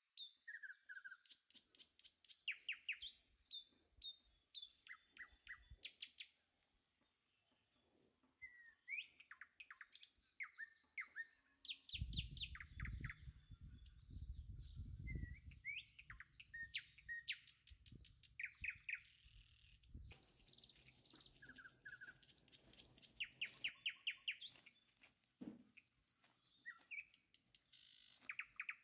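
Several songbirds singing and calling, with rapid trills and short sliding chirps overlapping one another. A low rumble sits under the birdsong for several seconds in the middle.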